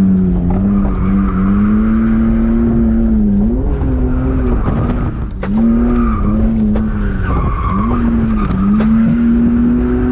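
BMW E46 drift car's engine held at high revs, its pitch rising and falling with the throttle and dipping briefly about halfway through, while the tires squeal and skid in a slide.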